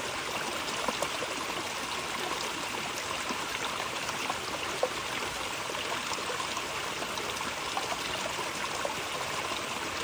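Running water of a small stream, a steady rush with small splashing trickles and one slightly louder splash about five seconds in.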